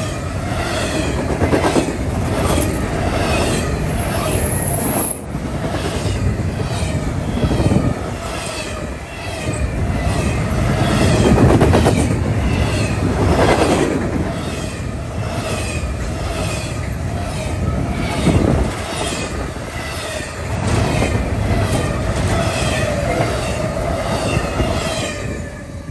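Double-stack intermodal freight train passing at speed: the wheels of the well cars clack over the rail joints about twice a second over a steady rumble and rattle. The sound falls away near the end as the last cars go by.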